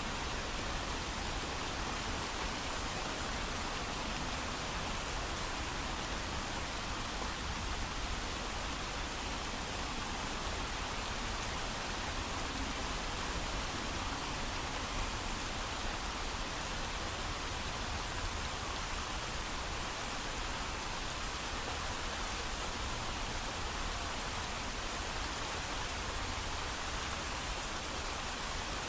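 Steady, even rain with no thunder, a constant hiss of falling drops that neither builds nor fades.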